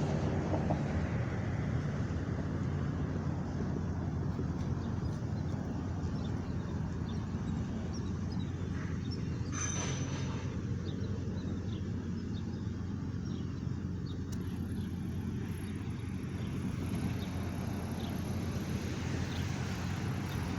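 Steady low hum of a running vehicle engine, with a few faint high bird chirps over it.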